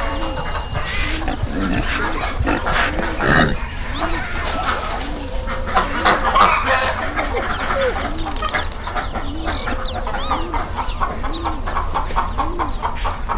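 Birds calling: a low, rounded call repeats evenly, a little more than once a second, while higher chirps and squawks come and go over it.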